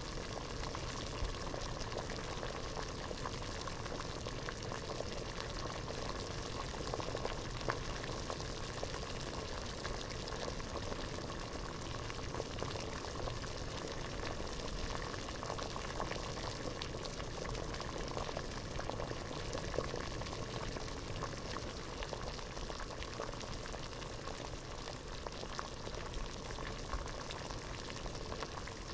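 Water boiling in a pot: a steady rolling boil of dense bubbling with many small pops and crackles.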